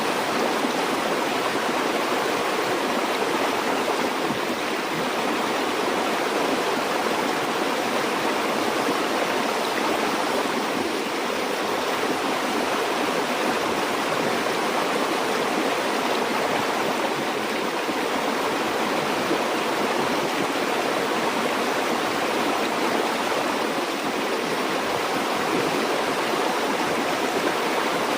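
A river or stream flowing steadily over rocks: a continuous, even rush and babble of water with no breaks.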